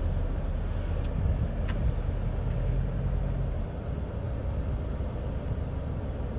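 Four-wheel-drive vehicle's engine running under way, a low steady rumble that eases off about three and a half seconds in.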